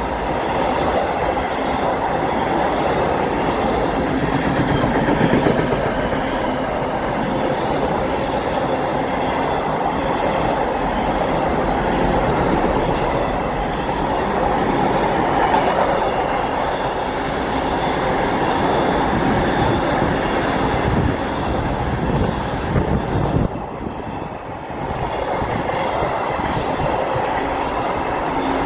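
Container-laden flat wagons of a freight train rolling past, a continuous loud rumble and clatter of steel wheels on the rails.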